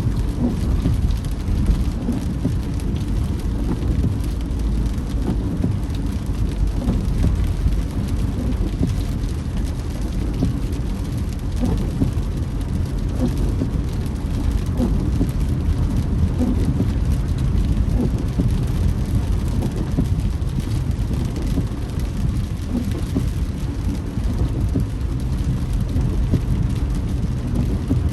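Rain pattering on a moving car, with the steady low rumble of the car and its tyres on a wet road, heard from inside the cabin.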